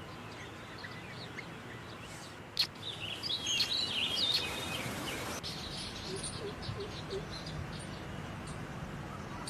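Small birds chirping, a quick run of high calls about three seconds in that fades out after about two seconds, over steady outdoor background noise. A sharp click comes just before the chirping.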